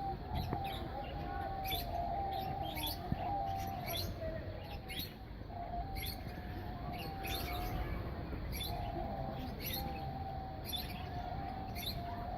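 Canary chirping: short, high chirps repeated irregularly, about one a second.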